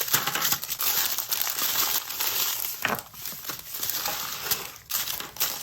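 Small plastic bags of diamond-painting drills crinkling and rustling as they are handled, with a dense run of small crackles.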